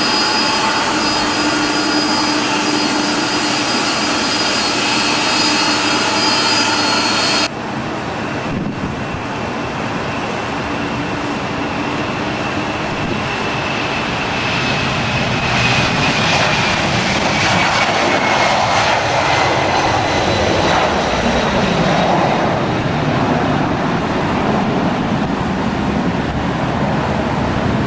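Aircraft engines running with a steady whine. About seven seconds in the sound cuts abruptly to another engine noise, whose high whine slowly falls in pitch as it swells in the middle and eases off.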